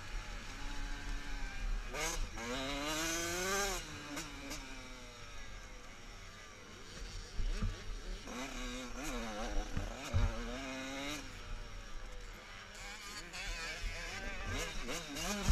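Motocross bike engines revving, their pitch climbing and dropping again and again as the throttle is worked. The strongest rises come about two to four seconds in, again around eight to eleven seconds, and near the end.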